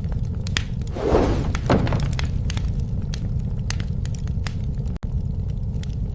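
Bonfire burning: sharp crackles and pops from the burning wood over a steady low rumble, with a louder, brief crunching burst about a second in.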